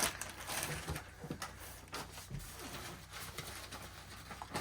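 Scattered light knocks and clicks with faint rustling as items are handled and sorted from boxes.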